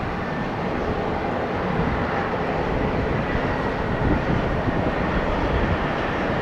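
Jet airliner engines running at the airport, a steady noise with a faint high whine above it that drops slightly in pitch near the end.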